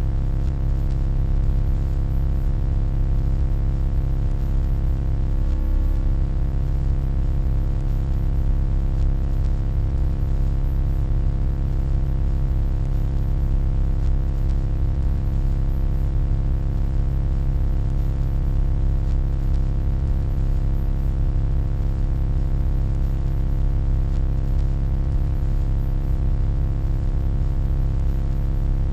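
Steady electronic hum: a low, constant drone with a stack of steady tones above it, unchanging throughout.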